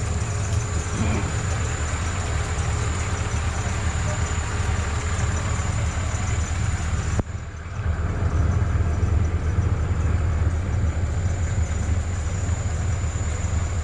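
Off-road vehicle's engine running with a steady low rumble and road and wind noise, broken by a sudden short drop about seven seconds in before it carries on.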